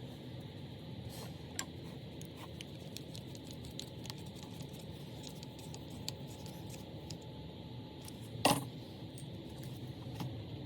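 Small metal parts and tools being handled on a workbench: scattered light clicks and scraping, with one louder clack about eight and a half seconds in, over a steady hum.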